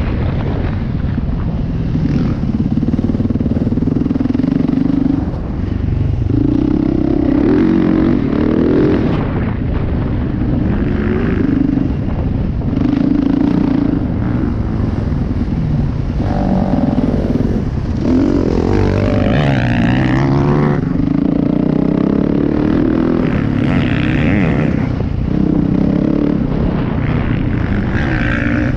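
Off-road motorcycle engine running under throttle from on the bike, its revs rising and dropping repeatedly, with a brief dip about five seconds in and a spell of quick rises and falls around the middle.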